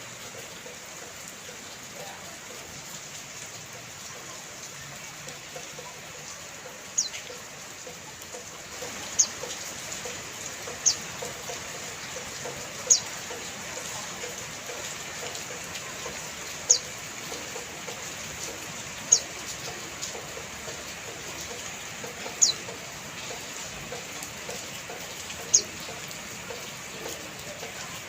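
Steady rain hiss. From about seven seconds in, a small bird gives short, high, down-slurred chirps, one every two to three seconds.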